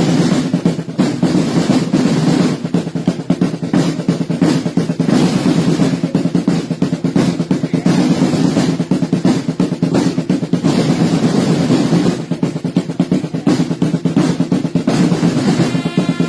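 A group of snare-type parade drums playing continuous fast rolls, the drumming of the Sartiglia drummers.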